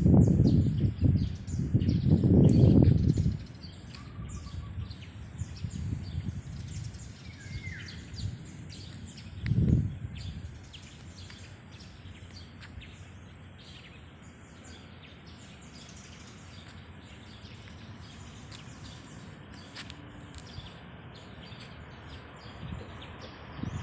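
Birds chirping with short, repeated high calls and one brief sliding call, over a low rumble that is loud for the first three seconds and comes back briefly near the middle.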